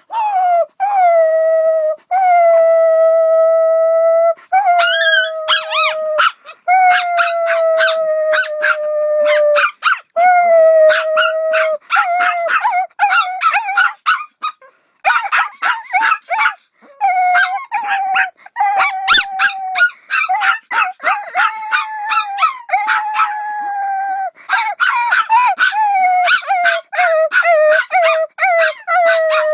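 A dog howling: long, slightly falling howls at first, then breaking into quick runs of short yips and yelps mixed with shorter howls.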